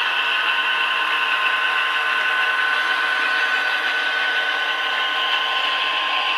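HO scale model diesel train running steadily: the whir of the model's mechanism and wheels on the track, mixed with locomotive and freight-car sounds played by onboard sound decoders through tiny speakers, thin with no bass and with a steady high whine.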